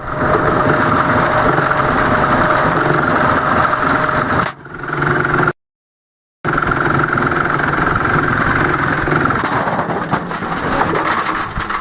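Candy washing machine running hard, a loud steady mechanical rumble and whine. It breaks off abruptly twice near the middle, once for about a second of dead silence.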